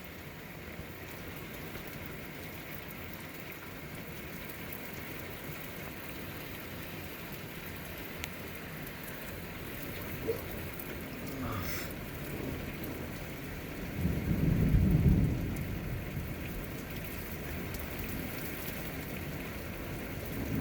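Thunderstorm: steady rain falling throughout, with a loud, low rumble of thunder about two-thirds of the way through that lasts around two seconds.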